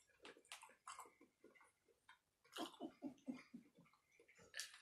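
Faint, wet chewing and lip-smacking of someone eating: an irregular run of small clicks and smacks, busiest about halfway through.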